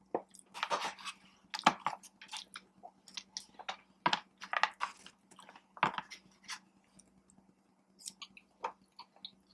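Close-miked chewing while eating: wet mouth smacks and clicks at irregular intervals, with a few louder smacks spread through the stretch.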